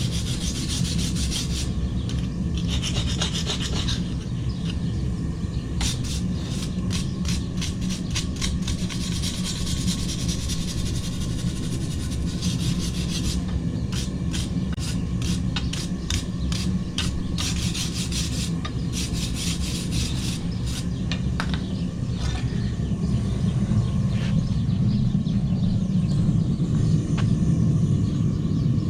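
Wire brush scrubbing forge scale off a steel blade in runs of quick scraping strokes, over a steady low rumble that grows louder near the end.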